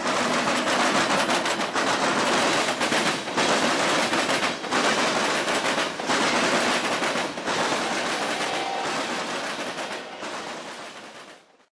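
Norfolk Southern freight train rolling past close by, its covered hopper cars' wheels clattering over the track in a dense, rapid rattle of knocks that eases off near the end.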